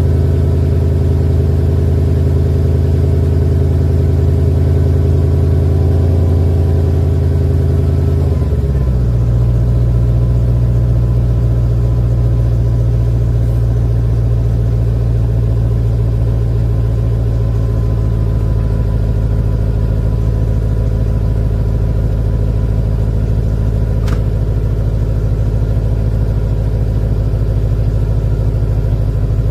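Mercedes-Benz ML430's M113 V8 idling after a cold start at about 1 °C. About eight seconds in, the engine note drops and then holds steady at a lower idle, the sign of the cold fast idle settling. There is a single short click near the end.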